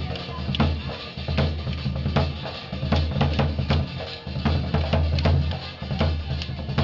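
Folk music with a hand-played drum keeping a steady beat of deep bass strokes and sharp strikes.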